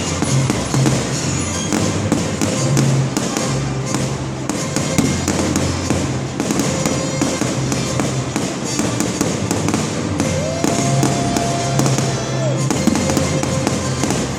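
Fireworks bursting and crackling in quick succession, with music playing loudly under them for a themed fireworks show; a held note sounds from about ten seconds in to nearly thirteen.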